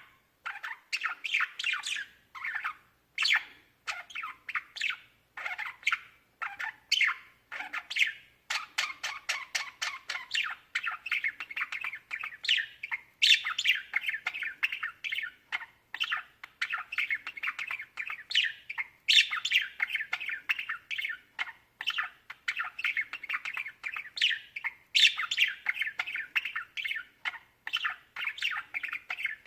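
A flock of budgerigars chattering, with a continuous stream of quick chirps and short squawks that begins abruptly.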